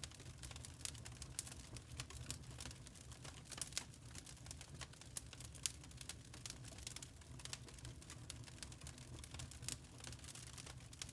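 Burning charcoal crackling: a dense run of irregular small pops and snaps over a steady low hum.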